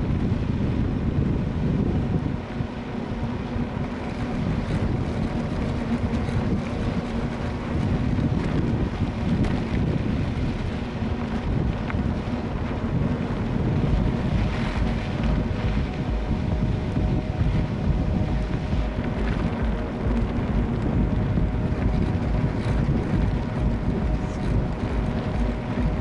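Strong wind buffeting the microphone, a loud gusting low rumble, with a faint steady hum underneath.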